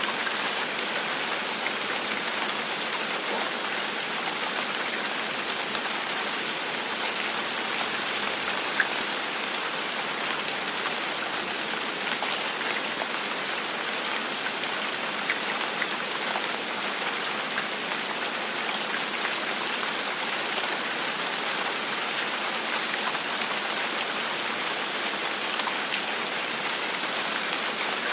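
Steady gentle rain falling on a hard surface, an even hiss scattered with small drop ticks and one louder drip about nine seconds in.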